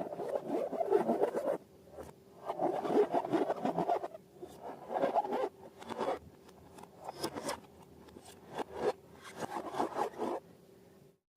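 Hands squeezing and stretching slime: spells of wet crackling and popping, each a second or two long, with short pauses between.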